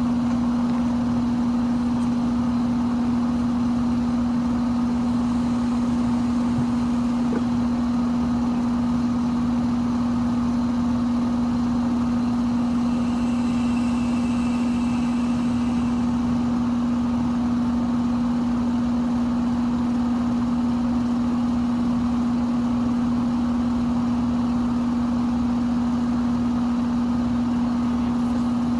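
2024 Carrier central air conditioner outdoor unit running with a steady, loud hum on one tone. It is running in cool, 60-degree weather, in which the owner says the unit's fan motor does not sound great.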